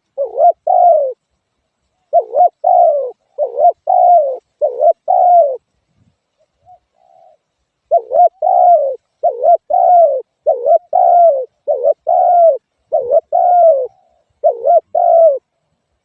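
Spotted dove cooing: loud, repeated two-part coos in close runs, breaking off for a couple of seconds about six seconds in before the series resumes.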